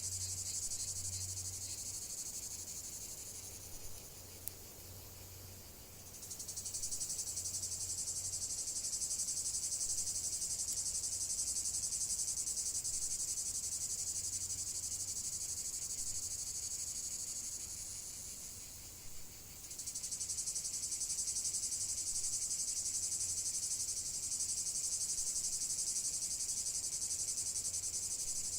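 A dense, high-pitched chorus of chirring insects, fading down twice for a few seconds (about four seconds in and again near twenty seconds) before it swells back.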